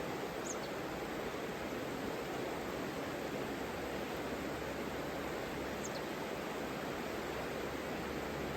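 Savica river rushing steadily, an even wash of flowing water. Two brief faint high chirps cut through it, one about half a second in and one near six seconds.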